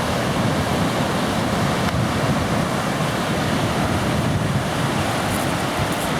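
Ocean surf washing in, a steady rushing noise, with wind buffeting the microphone in a low rumble.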